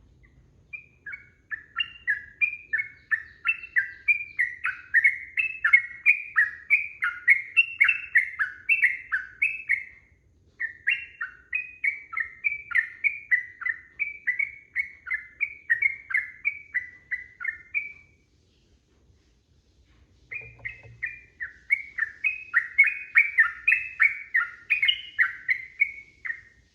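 Sooty-headed bulbul (trucukan) singing a long, fast run of short notes, in three bouts with a pause of about two seconds before the last.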